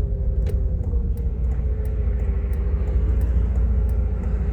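Steady low rumble of a Jeep Grand Cherokee's 3.7 L V6 and road noise heard inside the cabin, with a faint steady hum above it.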